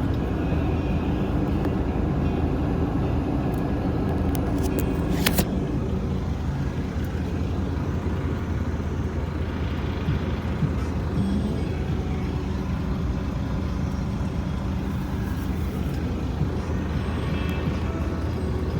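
Heavy diesel engine running steadily at a low, even drone, with one brief sharp sound about five seconds in.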